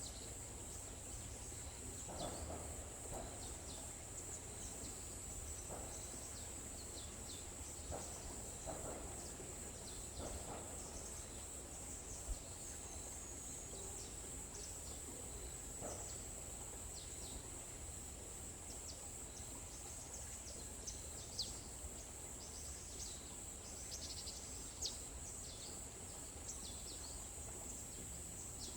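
Forest ambience: a steady, high-pitched insect chorus drones throughout, with scattered short bird chirps over it and a low background rumble.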